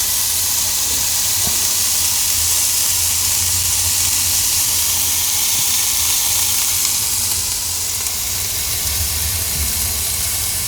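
Diced chicken strips frying in a little spray oil in a pan, a steady loud sizzle. A low hum runs underneath.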